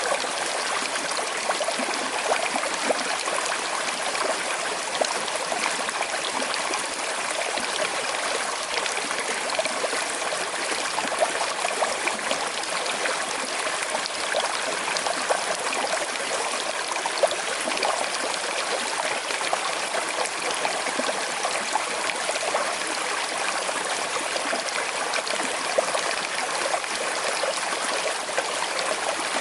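A small, slow-flowing river running over stones: a steady bubbling and trickling of water.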